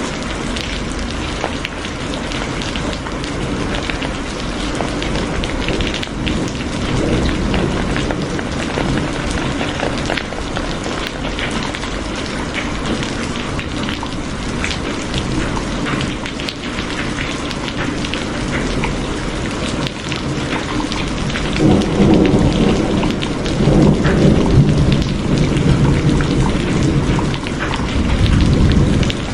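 Steady rain, with drops ticking on a surface, and rolls of thunder rumbling in the last third.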